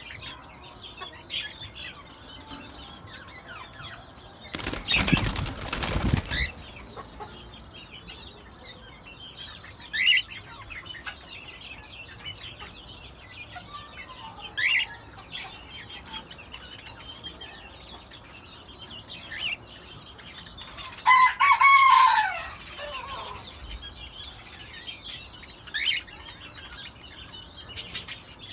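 Cockatiels in a cage: a loud burst of wing-flapping about five seconds in, short rising chirps every few seconds, and a louder falling call about three-quarters of the way through.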